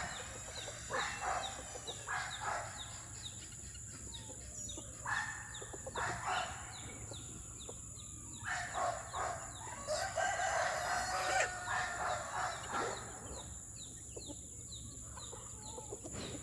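A flock of chickens clucking and calling in short repeated bursts, with a rooster crowing in a longer call about halfway through.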